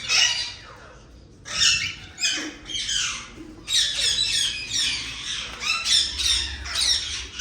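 Ringneck parakeets squawking: rapid runs of harsh calls, each falling in pitch, with a short lull about a second in.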